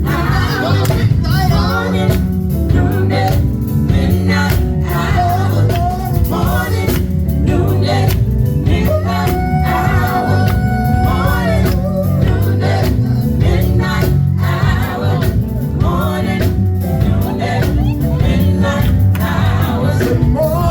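Live gospel music: singers over a band with bass and drums playing steadily.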